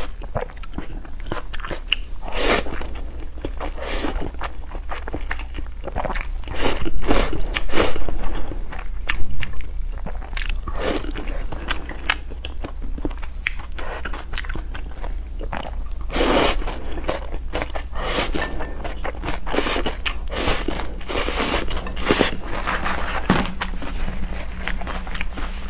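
Close-miked eating sounds of spicy noodle soup: irregular wet slurps, bites and chewing, clustered most densely around seven to nine seconds in, over a steady low hum.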